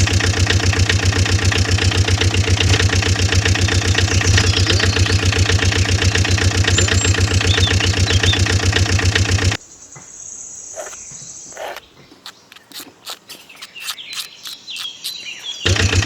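A small engine running with a fast, steady chugging beat that cuts off abruptly a little past halfway. Quieter outdoor sound follows, with scattered clicks and bird chirps, until the engine chugging comes back just before the end.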